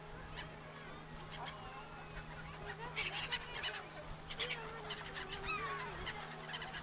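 A flock of black-headed gulls calling, many short harsh calls overlapping, busiest from about halfway through.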